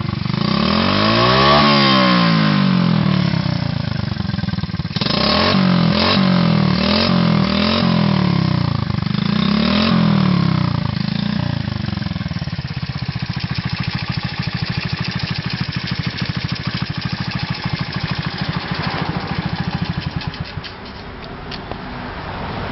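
Honda CD50 Benly's overhauled small single-cylinder four-stroke engine running. It is revved up and down once, then blipped several times in quick succession, then settles into a steady idle that drops quieter near the end.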